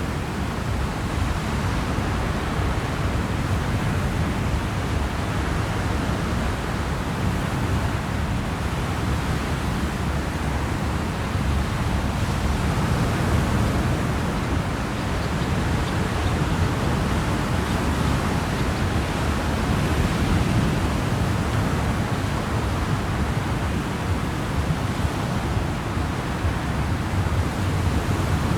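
Steady rushing of wind and water aboard a moving car ferry under way, with a constant low rumble beneath it.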